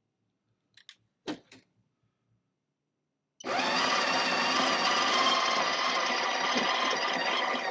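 A few light clicks, then the Breville Barista Touch's built-in conical burr grinder starts abruptly and runs steadily, grinding coffee beans.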